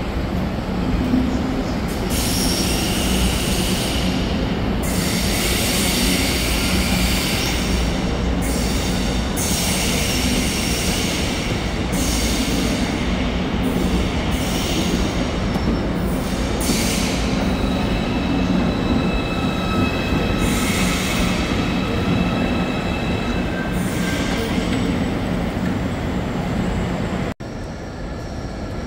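Deutsche Bahn ICE high-speed train moving along the platform, its wheels squealing in repeated high screeches over a steady low rumble. About a second and a half before the end the sound cuts off suddenly to a quieter background.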